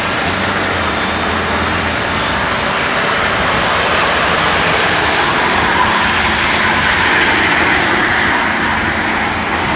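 Chevy Duramax diesel pickup doing a burnout: the engine is held at high revs while the tires spin, giving a loud, steady roar of engine and tire noise. The roar grows slightly louder and brighter about halfway through.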